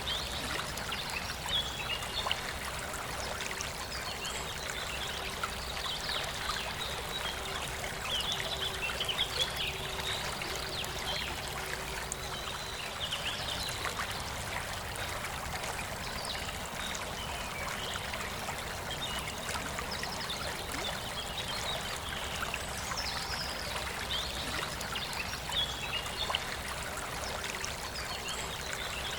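River water running steadily over rocks, with birds chirping and singing in short repeated phrases above it.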